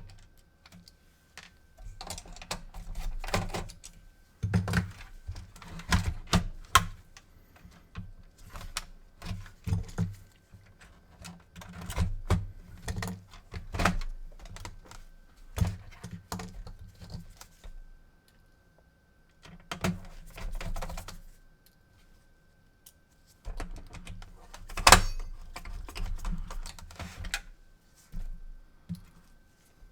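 Irregular clicks, taps and light plastic-and-metal clatter of a PS4 console's parts and tools being handled on a workbench, coming in clusters with a few short quiet pauses. A faint steady high tone hums underneath for much of the time.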